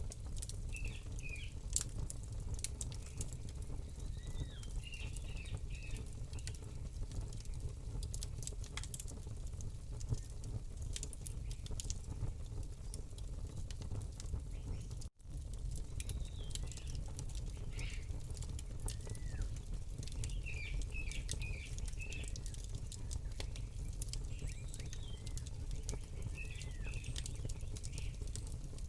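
Campfire crackling over a steady low rumble, with small birds chirping in short phrases now and then. The sound cuts out for an instant about halfway through.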